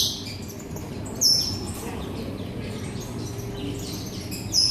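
Small caged birds chirping: short, sharp high chirps that fall in pitch, loudest about a second in and again near the end, with fainter chirps in between.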